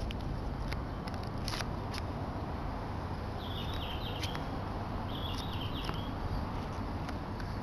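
A bird chirping in two short runs of quick notes about three and five seconds in, over a steady low outdoor rumble with a few faint clicks.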